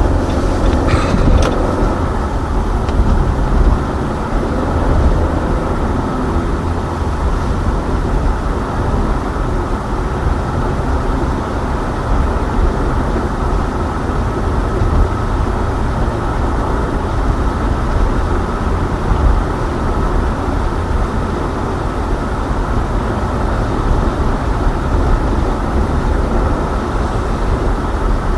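Steady low road and engine rumble inside a moving car's cabin, with a few light clicks in the first second or two.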